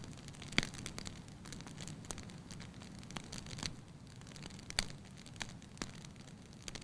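Wood campfire burning with a steady low rumble of flame and scattered sharp crackles and pops, the loudest pops about half a second in and near the five-second mark.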